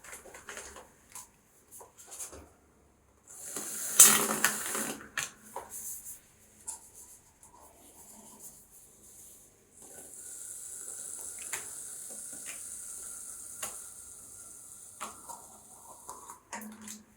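Aerosol can of shaving foam: a short, loud burst of spray about four seconds in, then later a longer steady hiss lasting about six seconds. Small clicks and crackles come in between.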